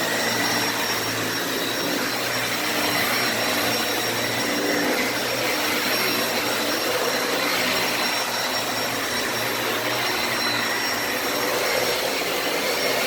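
Dyson Ball Animal 2 upright vacuum running steadily on fluffy carpet, its motorised brush roll spinning: an even rush of airflow with a thin, steady high whine from the motor.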